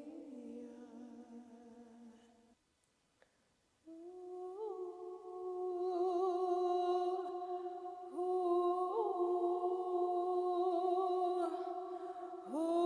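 Wordless vocal humming in long held notes with brief pitch flips. The voice drops away about two and a half seconds in, leaving a second or so of near silence, then comes back on a new sustained note.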